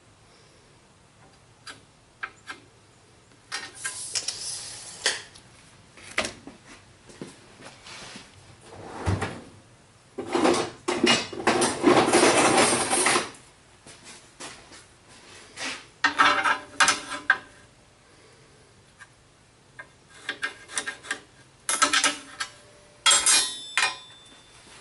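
Stored stock being rummaged and shifted by hand: scattered knocks and clatter, with longer scraping and rubbing stretches about ten seconds in, again a few seconds later, and near the end.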